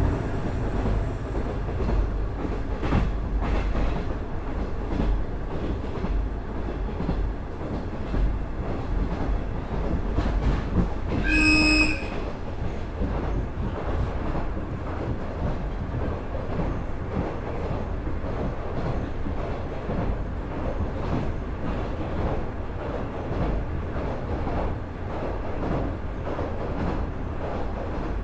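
Running sound inside a KiHa 110-series diesel railcar powered by a Cummins DMF14HZA engine: steady low rumble with rail-joint clicks. A brief horn blast sounds about halfway through, after which the rumble eases a little.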